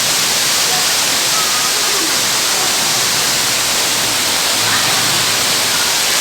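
Steady, loud rush of falling water, like a waterfall or cascade.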